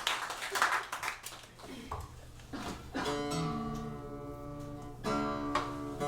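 Applause fading out over the first second or so, then a guitar starts picking held chords about three seconds in, with a fuller strummed chord near the end.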